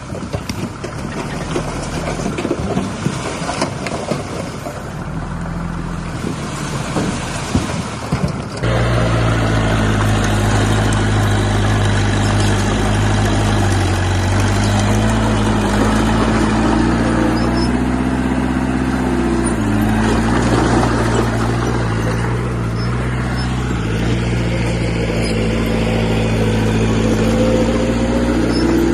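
Diesel engine of heavy construction machinery running. For the first eight seconds or so it comes with many knocks and rattles. Then the sound switches abruptly to a louder, steady engine note that rises and falls in pitch as the engine revs.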